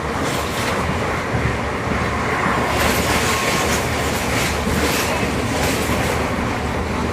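Express passenger train running along the track: a steady loud rumble of wheels on rail, with a sharp clatter that recurs every second or so.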